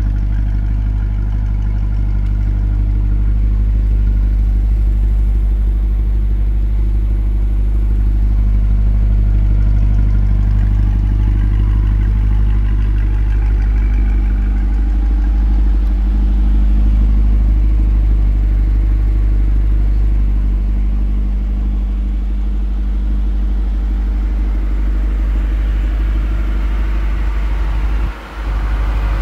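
Chevrolet Corvette C8 Z51's 6.2-litre LT2 V8 idling steadily, a deep even rumble from its quad-tip exhaust.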